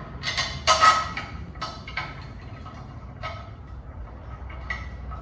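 Short metallic clanks and scrapes of parts and tools being handled, about half a dozen knocks, the busiest cluster in the first second and the rest spaced out after.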